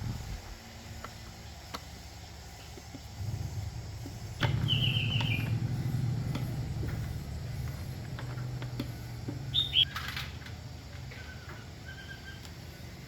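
Birds chirping in short descending calls, twice, over a low steady hum that comes up suddenly about four seconds in and slowly fades.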